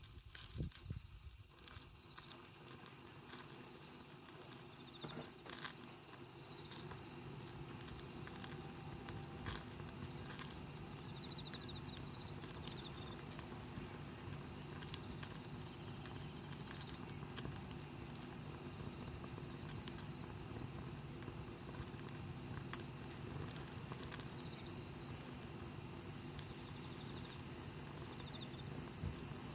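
Wood campfire crackling, with small pops scattered through it. A very high, steady sound sits above it and grows clearly louder near the end.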